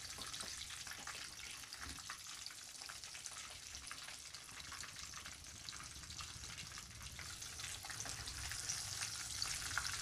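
Chicken keema cutlets frying in hot oil in a kadai: a steady crackling sizzle that grows a little louder near the end.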